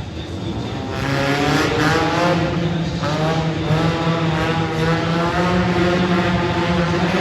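Monster truck engine revving hard. It climbs in pitch and loudness about a second in, then rises and falls over and over as the throttle is worked.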